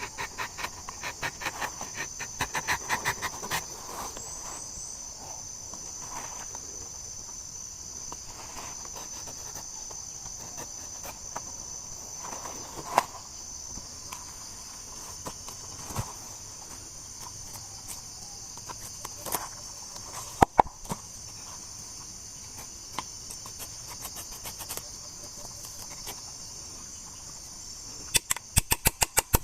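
Steady high-pitched chorus of insects, crickets or cicadas, with scattered sharp clicks and knocks: a quick run of them in the first few seconds and again near the end, and single louder ones in between.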